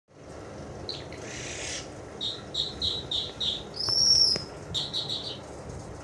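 Caged bird singing: a string of short, high, clear notes about three a second, then a brighter high whistle and a quicker run of notes. A brief rustle comes about a second in.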